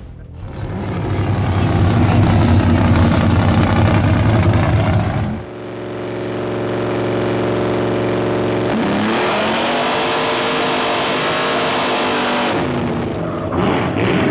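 Trophy truck engine running hard at race speed. Engine and road noise at first, then a steady held engine note for about three seconds, then the pitch rising as it accelerates again.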